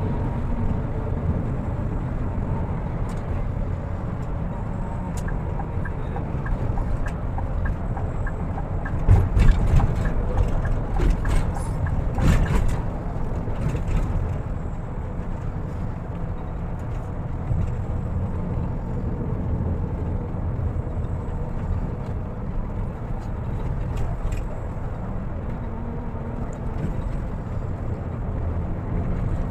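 Bus running on the road, its engine and road noise a steady low rumble, with a louder stretch of rattles and knocks from about nine to fourteen seconds in.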